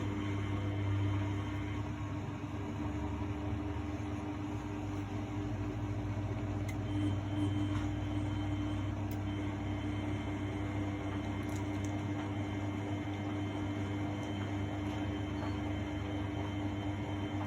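1999 Miele Novotronic W828 front-loading washing machine running on its Cotton 60 programme: a steady motor hum with a constant low tone and a higher whine.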